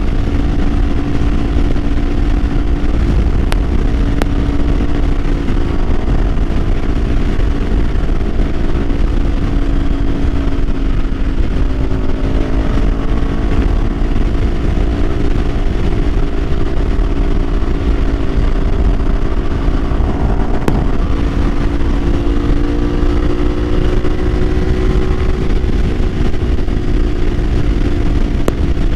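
Kawasaki Ninja 500 parallel-twin engine under way at a steady cruise, its note mostly holding steady with a few gentle rises and falls in pitch, over a heavy low rush of wind noise on the microphone.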